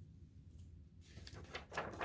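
A picture-book page being turned: a short papery swish, loudest just before the end.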